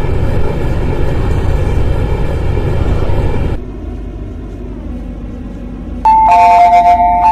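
MTR C-Train running noise heard inside the cabin, cutting off suddenly a few seconds in and leaving a quieter hum. Near the end a loud two-note electronic chime sounds twice.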